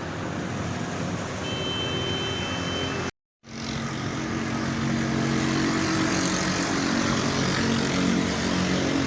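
Road traffic: a motor vehicle's engine running steadily over a background haze of traffic noise, with a brief faint high tone about two seconds in. The sound cuts out completely for a moment about three seconds in, then the engine comes back more strongly.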